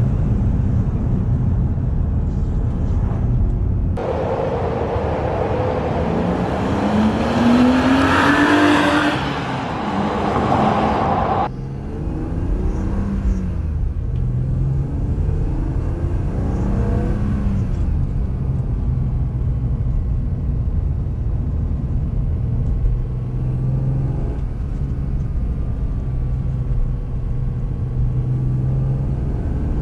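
BMW E36 M3's straight-six engine driving, its pitch rising under acceleration and then easing. A loud rushing noise starts suddenly about four seconds in and cuts off suddenly about seven seconds later, after which the engine runs on at a steadier pitch with small rises and falls.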